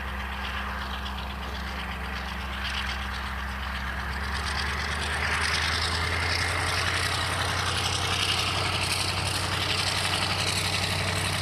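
Class 35 Hymek diesel locomotive engine sound, running steadily, then building up louder about five seconds in as the engine is opened up.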